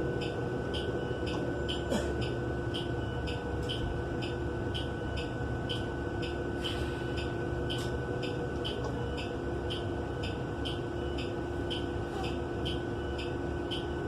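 Inside the cabin of a New Flyer XN35 bus, its natural-gas Cummins Westport L9N engine running steadily with a low rumble and a thin steady whine, while a sharp high tick repeats about twice a second.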